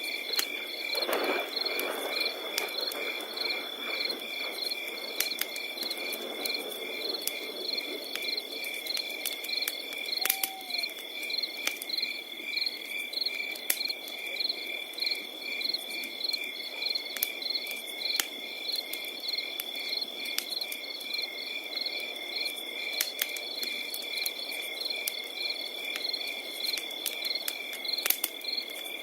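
Crickets singing without pause: one steady high trill and a second, pulsed chirping a few times a second, over a crackling fire with scattered sharp pops.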